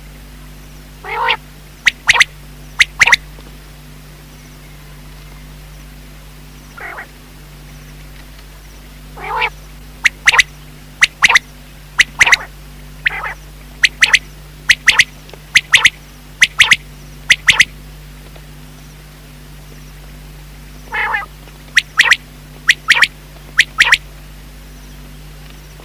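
Common quail calling in three bursts of sharp, clipped notes. Each burst opens with a rising lower note, and the middle burst runs longest, about eight seconds. A faint steady hum sits underneath.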